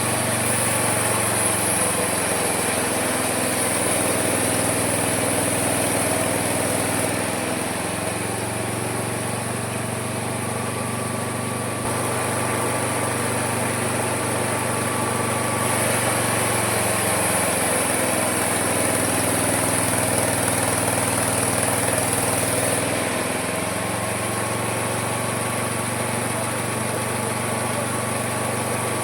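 Homemade mini sawmill running and sawing through wood with a steady motor drone. Its pitch sags and recovers about three times as the blade takes the load of the cut, while a high hissing cutting noise comes and goes.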